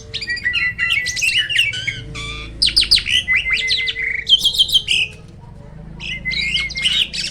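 Jalak langkah starling singing a fast, varied run of chattering, whistled and squawking notes, with a short pause about five seconds in before it starts again.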